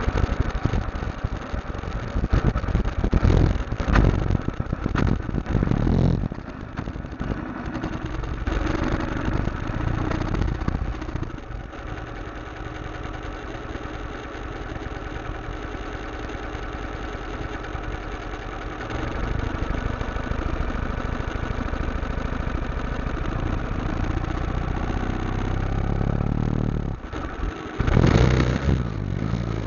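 Motorcycle engine running steadily while riding, with louder bursts of rushing noise in the first few seconds and again near the end.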